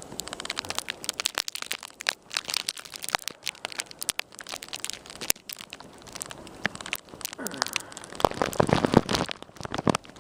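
Irregular crunching and crinkling close to the microphone, a dense run of sharp crackles that grows busier near the end.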